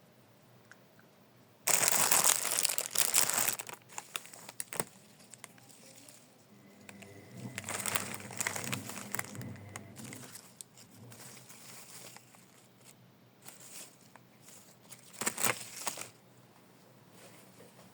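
Crinkling, crumpling noise in three bouts: a loud one about two seconds in lasting under two seconds, a longer, softer one around eight to ten seconds, and a short one near the end.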